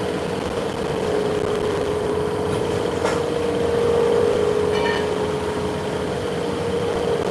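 Machine-shop machinery running with a steady hum and a constant tone, with a faint click about three seconds in and a brief high tone near five seconds.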